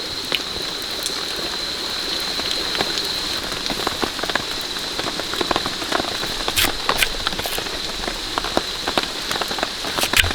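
Steady rain falling, with many scattered drops tapping irregularly and a short flurry of heavier drops near the end.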